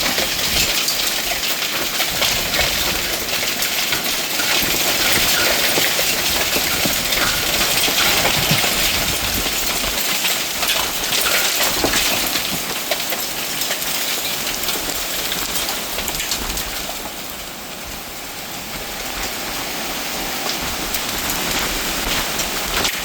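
Heavy hail pelting hard surfaces: a dense, continuous clatter of many small impacts mixed with rain. It eases briefly about three quarters of the way through, then picks up again.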